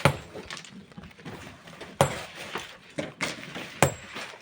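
Metal hand tools striking stone: about four sharp, irregular blows, the first right at the start and the loudest. Some have a short high metallic ring.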